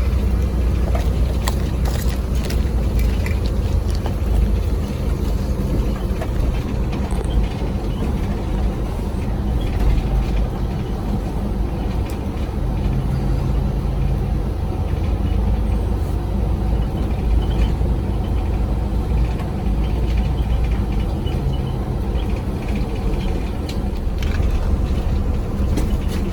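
Charter coach bus running, heard from inside the passenger cabin as a steady low rumble of engine and road noise, with a few faint clicks and rattles.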